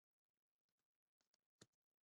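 Near silence, with one faint click about one and a half seconds in.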